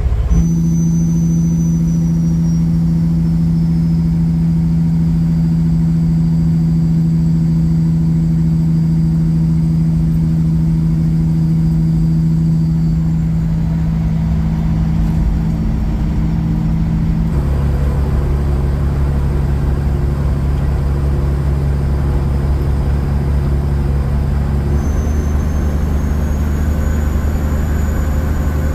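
Kenworth semi truck's diesel engine running steadily, heard inside the cab. Its drone shifts to a lower pitch with a heavier rumble about seventeen seconds in.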